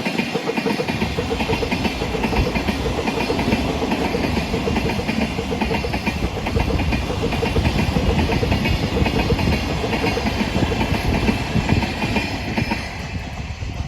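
Cement freight train hauled by electric locomotives passing close by, its wheels clattering steadily over the rails. The noise eases off near the end as the train goes by.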